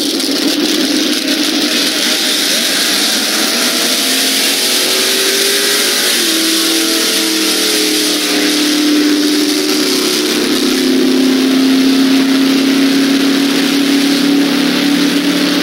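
Drag-racing car's engine at full throttle on a quarter-mile pass. The engine note shifts in pitch in several steps over a steady hiss of wind and tape noise.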